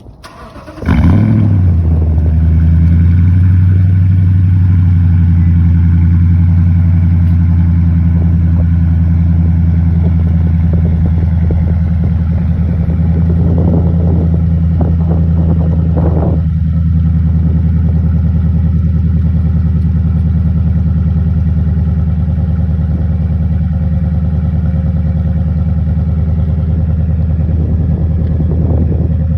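2016 Toyota Tundra's V8 starting about a second in, with a brief flare in revs, then idling steadily through a Pypes cat-back exhaust with a Violator muffler.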